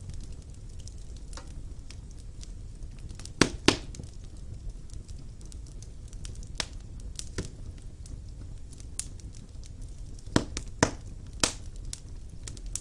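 Wood fire burning in a stone fireplace: sharp crackles and pops over a steady low rumble of the flames, with the loudest pops coming in a pair about three and a half seconds in and a cluster near the end.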